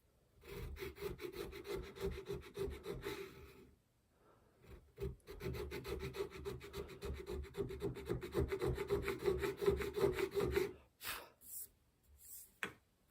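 Hand checkering tool cutting grooves into a wooden gun stock: quick short rasping strokes in two runs with a pause near four seconds, then a few separate strokes near the end.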